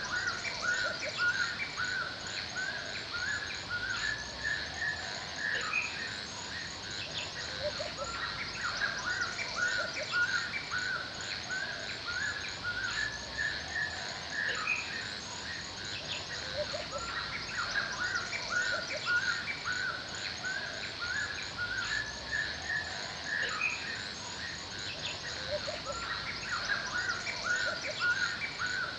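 Forest ambience: several birds singing and calling in repeated short chirping phrases, over a steady high insect trill with rapid ticks, and a few lower calls now and then.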